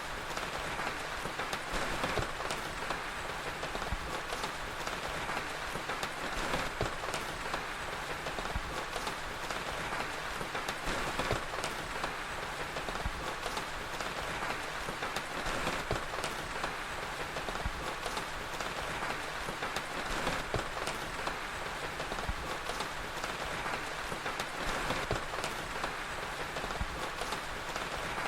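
Steady rain mixed with a crackling fire, with small pops and crackles scattered through the even hiss of the rain.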